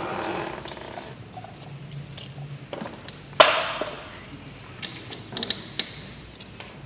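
Metal clicks and knocks from handling the parts and tools of a twin-needle industrial sewing machine, with one sharp ringing metallic strike about three and a half seconds in and a quick run of clicks a little before six seconds.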